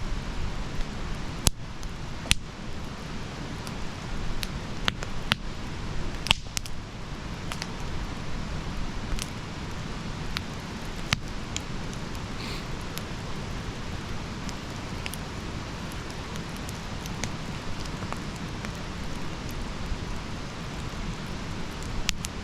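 Wood campfire burning: a steady low rush of flame with scattered sharp crackles and pops from the burning wood, a few of them louder.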